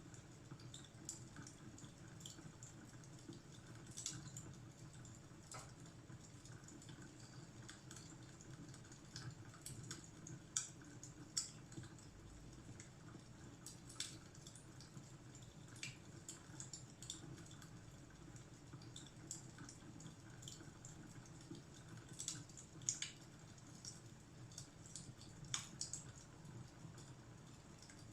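Faint crackling of a wood fire: irregular sharp pops and snaps over a low, steady rumble of flame.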